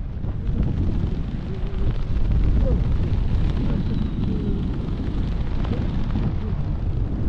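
Wind rushing over the microphone in flight, a steady low rumbling buffet of airflow.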